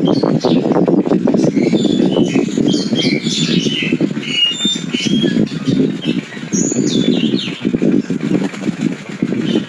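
A Nias myna calling, a quick series of short whistles and harsh squawks, high-pitched, over a steady low rumble of background noise.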